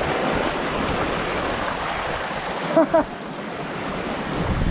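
Rushing stream water, a dense steady roar of fast brown river water over rocks. About three seconds in, two short pitched calls break through it.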